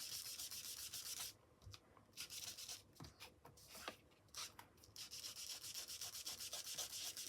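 Ink blending tool rubbing quickly over smooth cardstock in fast scrubbing strokes, stopping briefly a few times.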